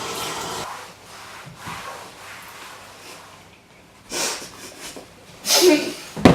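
Running tap water that shuts off within the first second. Then a few short breathy snorts from a person, the loudest near the end, and a sharp click just before the end.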